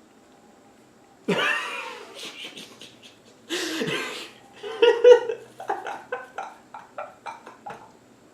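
A pet talking bird gives two loud calls with bending pitch, about a second and three and a half seconds in, followed by a run of short, rapid laughter-like bursts.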